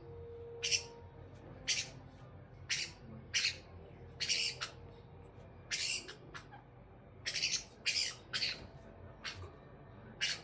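Caique parrot giving a series of short, harsh, high-pitched squawks, about a dozen of them, roughly one every half second to second.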